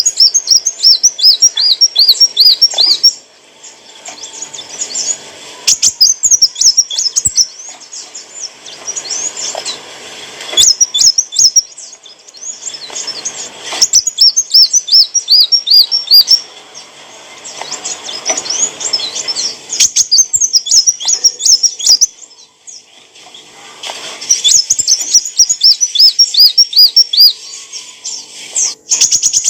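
Kolibri wulung sunbird singing: phrases of rapid, high, looping chirps a few seconds long, repeated every few seconds with short pauses between them.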